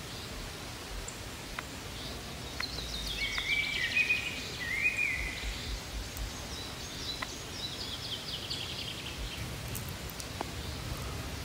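Songbird singing: two phrases of rapid, high trilled notes a couple of seconds apart, the second a falling series, over a steady outdoor hiss.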